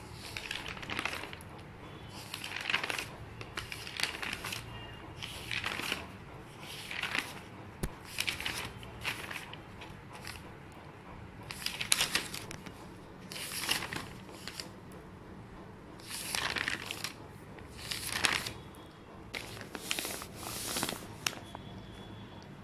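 Irregular short bursts of rustling and crinkling handling noise, one every second or two, typical of paper being handled.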